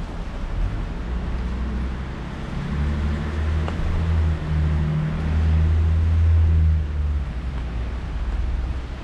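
A car engine rumbling close by, building a few seconds in, loudest near the middle and then fading, over a steady hiss of rain.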